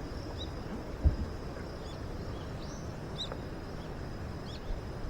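Outdoor night ambience of insects calling: a steady high trill with scattered short chirps, over a low rumbling background. A single thump about a second in.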